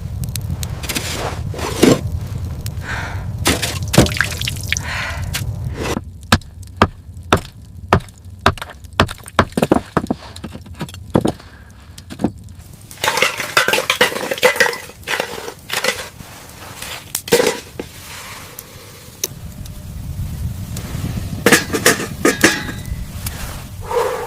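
Repeated sharp knocks and cracks of something hard being struck or broken, with a quick run of about two strikes a second in the middle.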